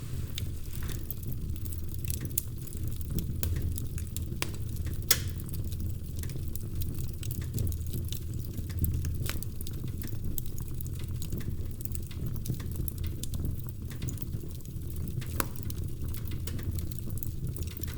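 Wood fire crackling in a fireplace: a steady low rumble of burning logs with scattered sharp pops and snaps, the loudest pop about five seconds in.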